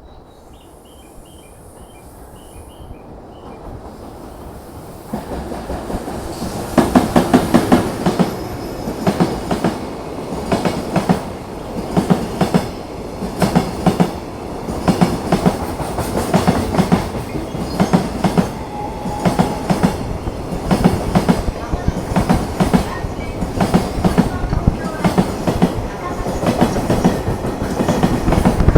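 A JR Freight EF210 electric locomotive and its long train of container flatcars passing at speed, rising out of a quiet start. The wheels clatter over the rail joints in repeating groups of sharp clacks.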